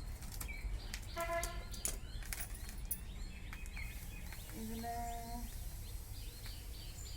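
Small birds chirping repeatedly over a steady low rumble, with sharp clicks and knocks of kitchen things being handled in the first three seconds and two short pitched calls, about a second in and about five seconds in.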